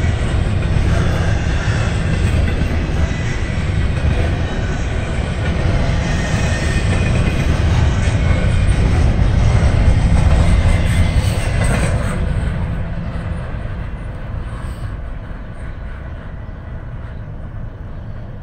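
Double-stack intermodal freight train rolling past close by: a steady rumble and clatter of well-car wheels on the rails. After about twelve seconds the last cars go by and the sound fades as the train moves away.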